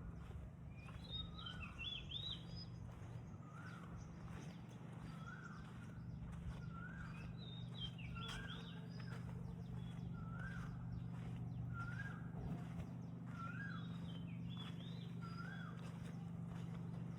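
A bird calling repeatedly, one short rising-and-falling note about once a second, with a higher twittering phrase a few times, over a steady low hum.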